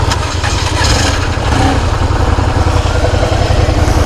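Motorcycle engine idling steadily just after being started, a fast, even low pulsing.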